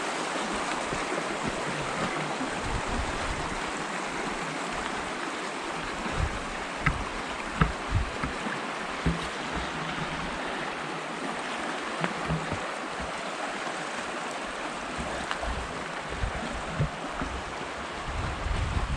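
Pecos River water rushing steadily, with scattered short low thumps over it.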